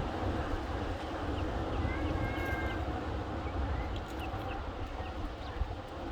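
Button quail calling: scattered short, high chirps, each sliding down, and two brief held whistled notes about two seconds in, over a steady low rumble.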